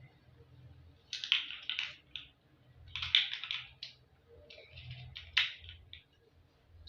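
Toy building blocks being handled and fitted together: four short spells of clicking and rattling with pauses between.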